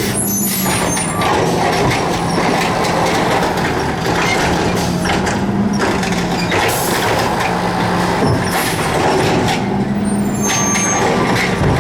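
Garbage truck engine running steadily, with brief high-pitched squeals about half a second in and again near the end.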